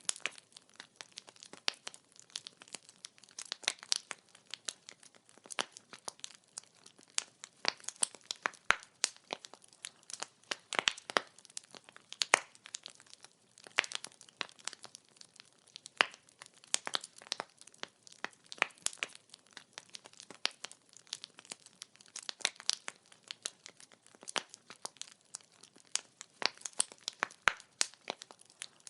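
Wood fire crackling: burning logs give off a dense, irregular run of sharp pops and snaps, several a second, over a faint hiss.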